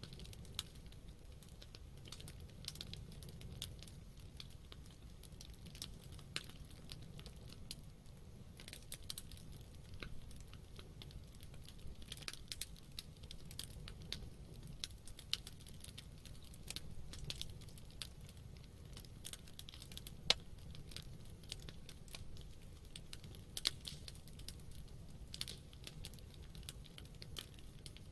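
Wood campfire burning, with a steady low rumble of the flames and irregular crackles and pops of burning wood, a few louder pops standing out.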